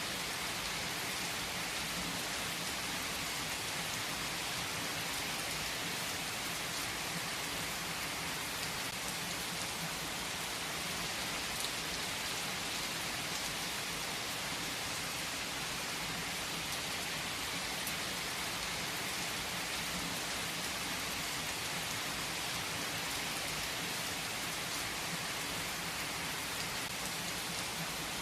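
Steady rain falling, a dense, even patter of drops with no break or swell.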